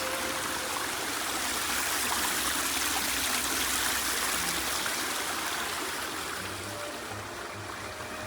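A string quartet playing without amplification, faint and hard to make out under a steady rush of running water that is the loudest sound.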